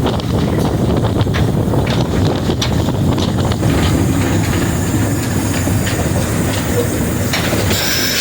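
Cab noise of Frisco 1630, a 2-8-0 steam locomotive, under way: a steady heavy rumble with irregular clanks and rattles, and a hiss rising near the end.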